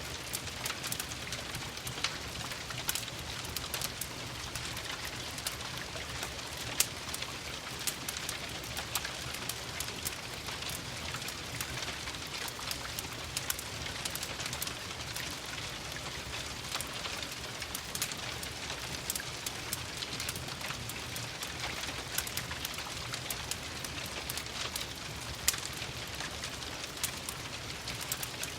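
Steady rain falling, mixed with the scattered pops and crackles of a wood fire. Two pops stand out louder, about seven seconds in and near the end.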